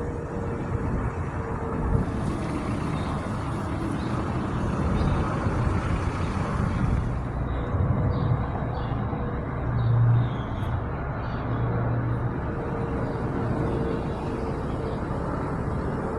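Steady vehicle rumble with a faint steady tone that fades in and out.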